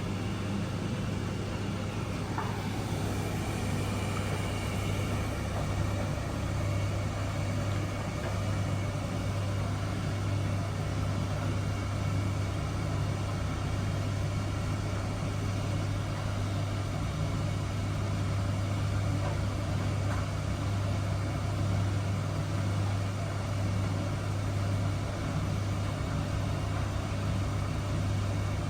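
Miele W1 washing machine running with a steady, even hum.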